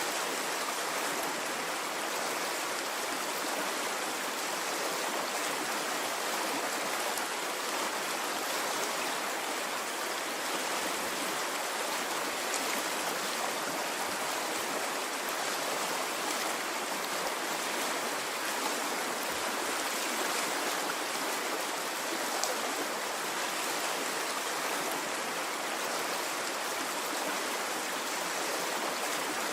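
A stream of water flowing steadily, an even rushing and babbling with no pauses.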